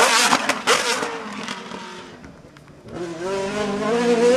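Hillclimb race car engine going past at high revs, with a few sharp cracks in the first second, then fading away. About three seconds in another race car's engine comes up, its pitch rising as it accelerates.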